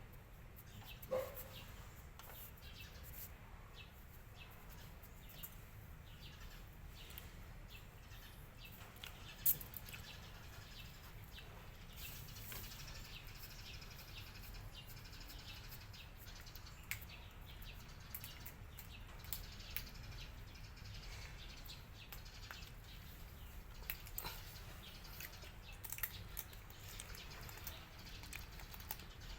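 Cats chewing and crunching food, a faint, irregular scatter of small crisp clicks, with one brief higher-pitched note about a second in.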